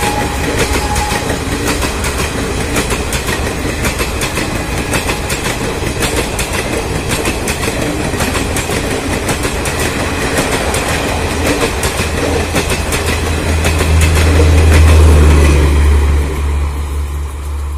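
Passenger coaches of an express train passing close by at high speed, the wheels clattering rapidly over the rail joints over a steady rushing noise. About three-quarters of the way through, a low rumble swells loudly as the last coaches go by, then begins to ease.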